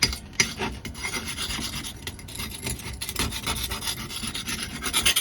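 A small steel knife's edge scraped rapidly back and forth across a brick, a rough, gritty rasping in quick repeated strokes, deliberately dulling the blade.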